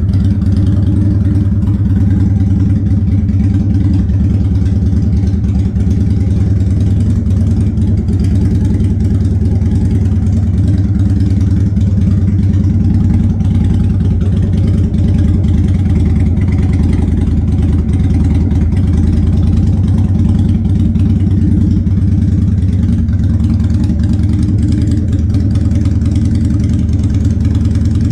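2006 Harley-Davidson Sportster V-twin with Vance & Hines exhaust pipes idling steadily on a cold start, choke still on because of the cold.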